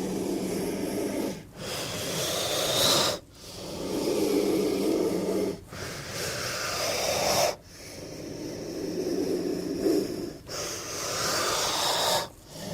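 King cobra hissing: a low, breathy growl-like hiss repeated about seven times, each lasting one and a half to three seconds with short breaks between.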